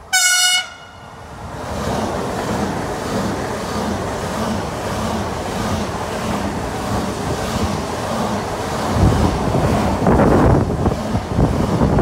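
An SBB electric passenger train gives one short horn toot, then passes at speed: a rushing rumble of wheels and air with a regular clickety-clack beat. Near the end, gusts from the train buffet the microphone.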